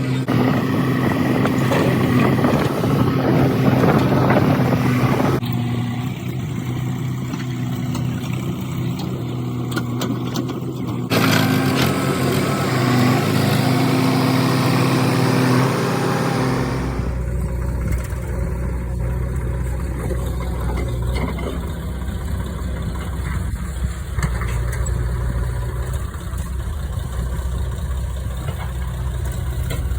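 Diesel engines of a JCB 3DX backhoe loader and a Swaraj 744 FE tractor running steadily during mud loading, the sound changing abruptly about 5, 11 and 17 seconds in, with a deeper low hum from the last change on.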